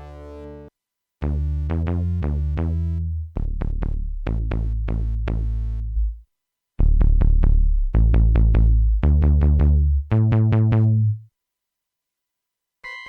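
Jeannie polyphonic DIY synthesizer playing short, bass-heavy notes, each starting bright and quickly darkening as the filter closes. They come in two phrases of several notes, with a short pause between, and stop about two seconds before the end.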